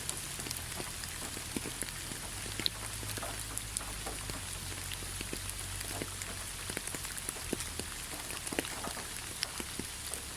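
Steady rain on a forest road, with many separate drops ticking sharply and irregularly over the even patter.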